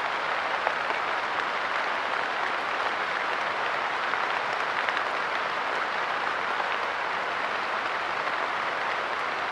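Steady light rain pattering on a park bench, a dense even hiss of many small drops.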